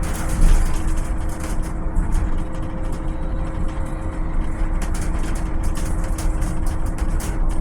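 Volvo BZL two-motor battery-electric bus running, with a low rumble and a steady electric whine, and frequent light rattles and ticks throughout.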